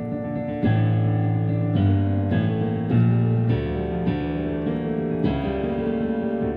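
Piano playing a run of struck chords over deep, sustained bass notes, a new chord coming roughly every half second to second.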